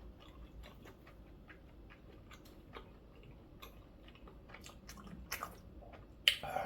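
A person chewing food close to the microphone, with many small wet mouth clicks and one sharper click near the end.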